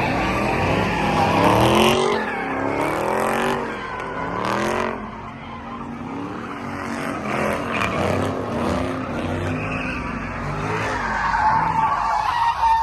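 A car doing a burnout: its engine revs up and falls back again and again while the tires squeal.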